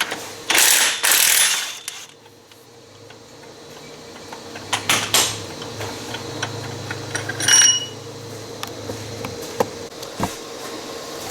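A socket ratchet working the 18 mm bolt of a CVT primary clutch loose, with ratcheting clicks and clanks of tool on metal. A loud rasping burst comes about half a second in.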